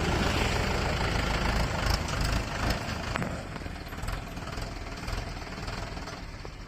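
Heavy diesel engine running steadily, slowly fading away.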